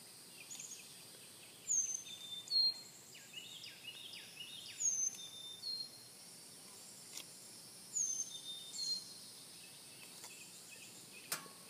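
Background birdsong: a bird repeating short, high whistled notes that slide downward, one every second or two, with a few lower falling notes mixed in.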